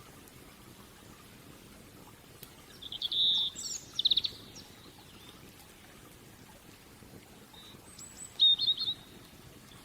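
Songbird calls over a faint crackle of a wood fire: a quick run of high chirps about three seconds in and another short trill of chirps near the end. Between them only a soft hiss with an occasional faint tick.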